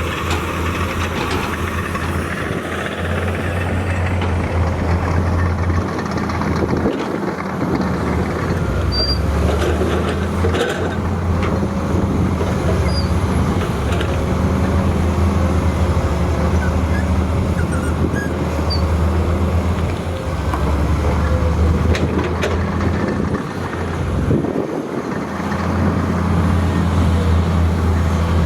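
Heavy diesel earthmoving machine's engine running steadily with a deep drone that eases off briefly twice, about a quarter and about five-sixths of the way through.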